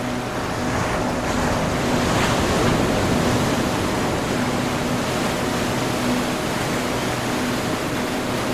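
Ocean surf washing in a steady rush, swelling about two seconds in, with a faint low droning tone coming and going beneath it.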